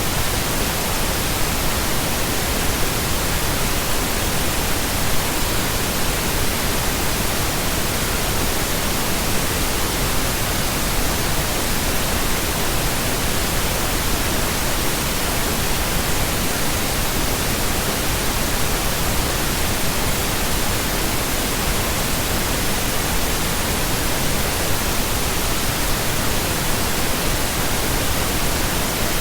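Continuous synthetic pink noise: a steady, even hiss with no changes or events.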